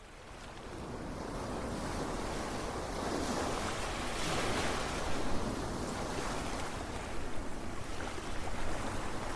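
Ocean waves washing onto a shore, fading in at the start, with a wave swelling to a peak about four to five seconds in.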